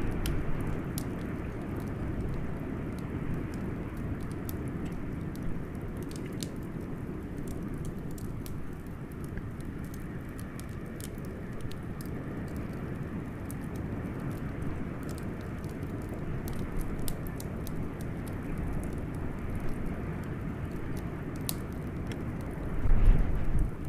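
Blizzard wind blowing as a steady low rumble, with scattered sharp crackles and pops from a wood fire. The wind swells in a brief gust near the end.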